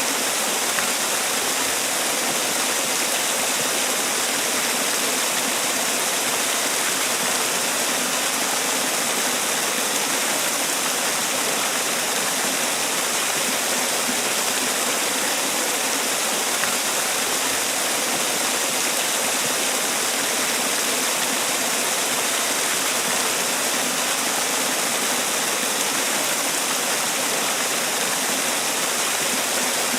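Man-made waterfall: water falling and splashing in a steady, unbroken rush, bright and hissy, with no change in level.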